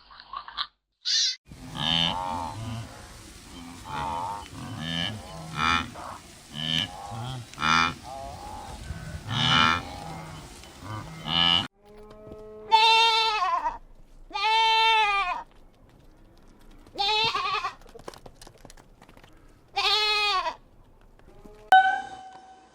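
Farm animals bleating. For the first half many calls overlap in a busy chorus; then it cuts to single clear bleats, four drawn-out calls that rise and fall in pitch, a second or two apart, with a short one near the end.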